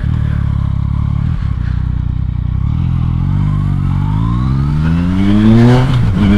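Motorcycle engine running steadily, then accelerating with the revs climbing for a couple of seconds, a brief drop near the end as it shifts up, and the revs rising again.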